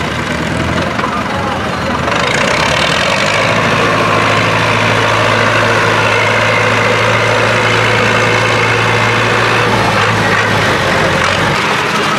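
Tractor engine running, growing louder about two seconds in and holding a steady note until near the end.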